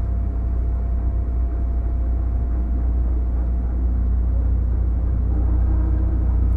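A JR East 205-series electric train heard from inside its motor car while running: a steady low rumble of wheels on rail and MT61 externally fan-cooled traction motors, with a faint steady hum, growing a little louder in the second half.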